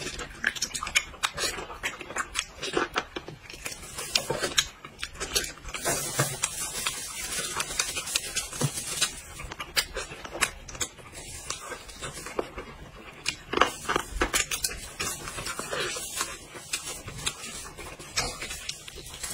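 Close-up eating sounds: a person biting into and chewing a large piece of sauce-covered braised meat, an irregular run of wet smacks and clicks.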